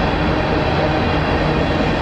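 A train going by: a steady, loud rumble of engine and wheels on rail.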